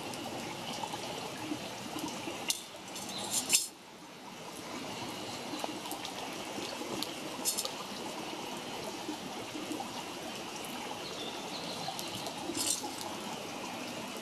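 Wood campfire burning: a steady rushing hiss with a few sharp crackles and pops, the loudest about three and a half seconds in.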